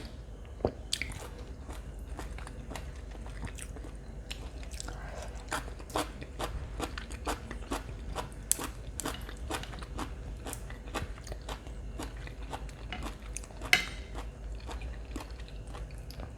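A person chewing food close to the microphone, with many short, irregular crunching clicks, several a second, and one sharper crunch near the end.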